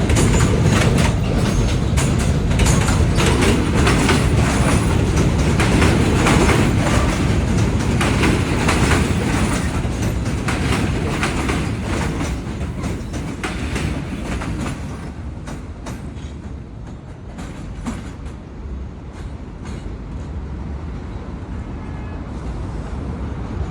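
R46 subway train pulling out, its wheels clacking rapidly over rail joints over a steady rumble. The clatter fades as the train moves away and thins out over the last several seconds.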